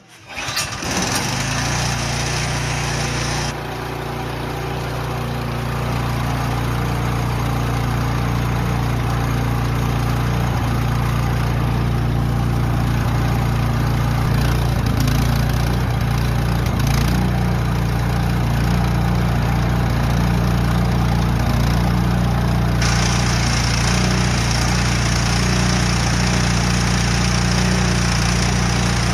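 Yard Machines snowblower's 179cc Powermore single-cylinder engine coming in suddenly and then running steadily. Its upper hiss drops away a few seconds in and returns near the end.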